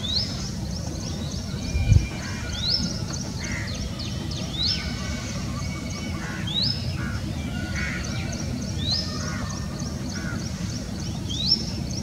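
A bird repeating a short rising whistle about every two seconds over fast, high background chirping and a steady low rumble. A single low thump about two seconds in.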